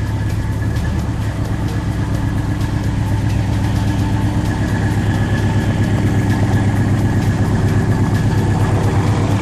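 2000 Ford Explorer's 5.0-litre V8 engine running steadily at low revs, a deep pulsing exhaust note.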